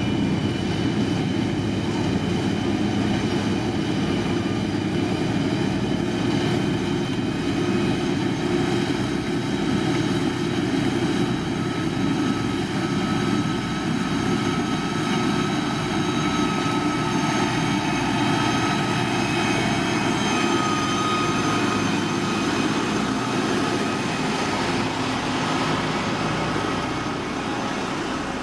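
Heavy road-construction machine's diesel engine running steadily, with a constant high whine over the low engine note.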